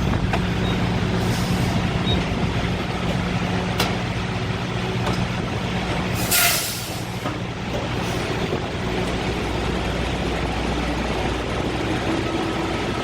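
Steady low hum of an idling diesel truck engine, with a short, loud burst of compressed-air hiss from an air brake about six seconds in.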